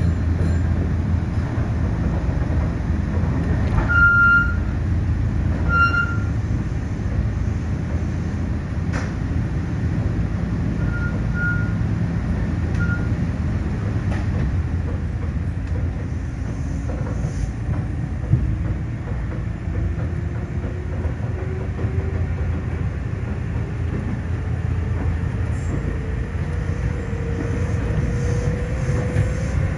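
Electric train running, heard from inside the car at the front window: a steady rumble of wheels on rail with a few short high-pitched tones around four and six seconds in. From about halfway, the traction motor's whine slowly rises in pitch as the train picks up speed.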